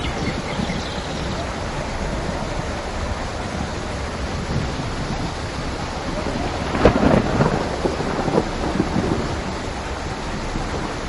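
Steady rain falling, with a thunderclap about seven seconds in whose crackle dies away over a second or two.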